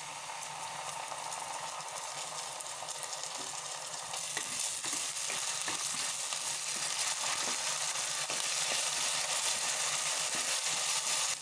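Chopped onions and ginger-garlic paste sizzling in hot oil in a pressure cooker while a spoon stirs them, scraping and knocking against the pot. The sizzle grows louder about four seconds in, as the stirring gets going.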